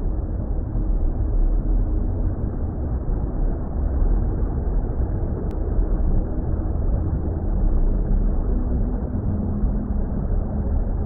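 Low, steady rumbling water ambience, muffled like sound heard underwater, with most of its weight in the deep bass and a faint steady hum within it.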